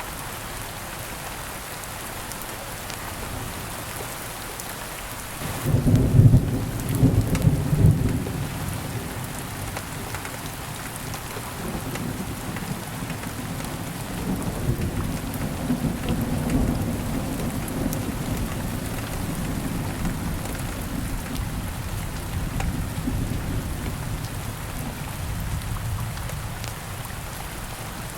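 Steady rain hiss. About six seconds in, a loud thunderclap breaks in and rolls on as a low rumble that slowly dies away over the next twenty seconds.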